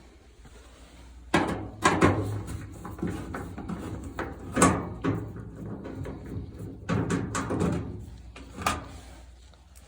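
Knocks, bangs and clatter from work on a gas dryer's sheet-metal cabinet as its panels and screws are handled. The knocks come irregularly, in a cluster near the start and again in the middle and near the end.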